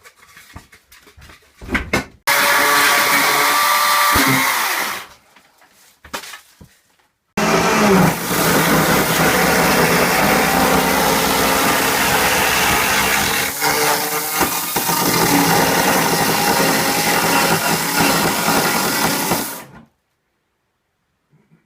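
Electric power tool motor running in two long runs, a short one of a couple of seconds and then a long one of about twelve seconds, with a whining pitch that shifts as the tool works under load.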